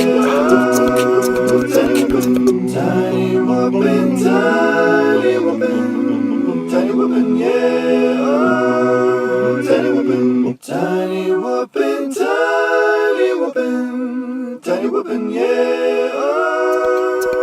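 A cappella vocal music: several layered voices singing held chords over a sung bass line. The low bass part drops out about ten and a half seconds in, leaving the upper voices.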